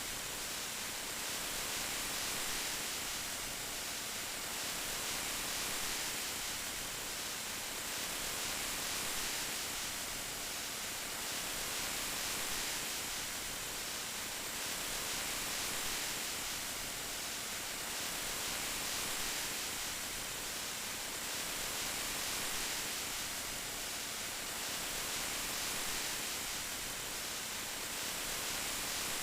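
Steady rain, an even hiss that swells and eases gently every few seconds.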